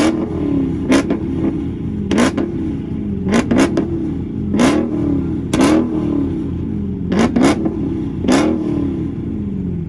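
Dodge Challenger Hellcat's supercharged V8 being revved in repeated quick throttle blips, about ten in all, roughly one a second. Each blip starts with a sharp crack, then the engine note dips and climbs back.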